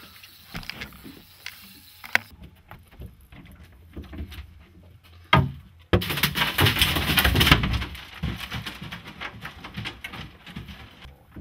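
Knocks and clatter of a set-down camera being jostled on a boat, with a sharp loud knock about five seconds in, then about two seconds of loud rushing noise.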